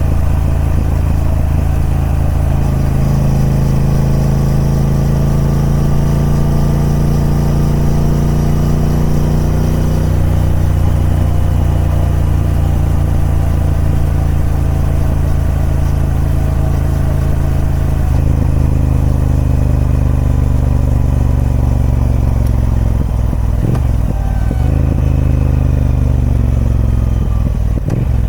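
Triumph Speed Twin 1200's parallel-twin engine with its stock exhaust running at a steady pace, the pitch shifting slightly a few times. Over the last few seconds the engine note falls.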